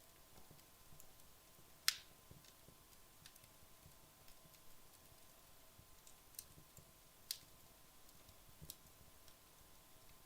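Wood fire burned low in a fireplace, giving sparse, sharp crackles and pops a second or more apart over a faint background hiss. The loudest pop comes about two seconds in.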